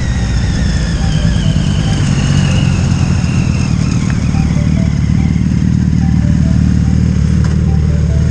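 Motorcycle engine running steadily while riding, with a high whine that slowly falls in pitch over the first few seconds.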